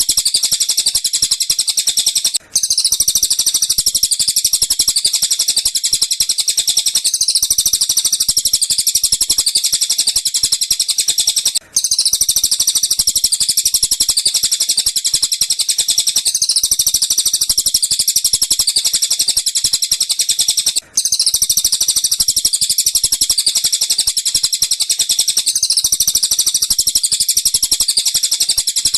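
Bird-song training recording (masteran) of tengkek buto and cililin calls: a dense, continuous stream of rapid, high-pitched chattering trills. It loops, breaking off briefly about every nine seconds.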